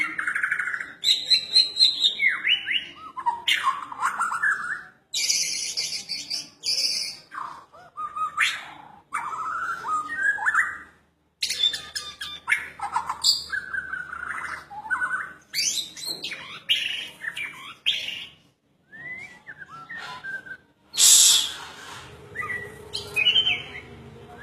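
Bornean shama (murai batu) singing a loud, varied song of rich whistles, quick chirping runs and a few harsh rasping notes, in phrases broken by short pauses. It is a lure song, used to provoke rival shamas into answering.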